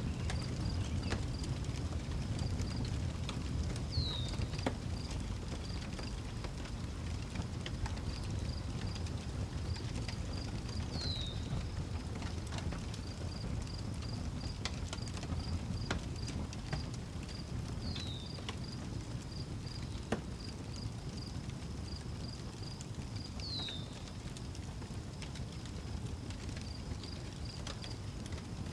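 Outdoor wood fire crackling, with scattered sharp pops over a steady low rumble. Crickets chirp in an even pulsing rhythm throughout, and a bird gives a short falling whistle five times, roughly every five to seven seconds.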